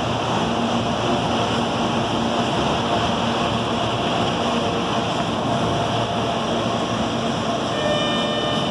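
CPTM 8500-series electric multiple unit rolling along the platform: steady running noise from the cars with a faint hum. A few higher tones join in near the end as the cab end comes past.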